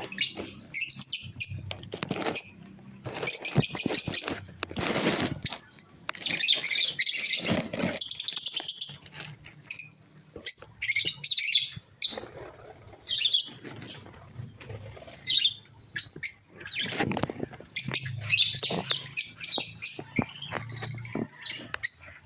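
Pet parakeets and cockatiels chirping and chattering in repeated high bursts, with a few short rustling noises among them.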